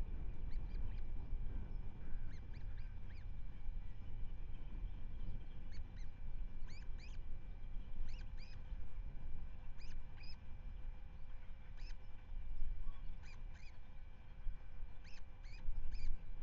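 Osprey calling at the nest: short, high, upslurred chirps in twos and threes, repeated every second or two, over a low wind rumble on the microphone.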